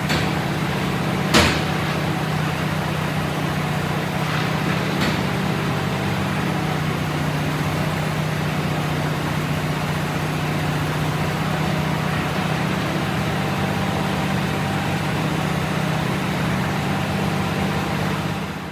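Engine idling steadily, with a sharp click about a second and a half in and two fainter clicks a few seconds later.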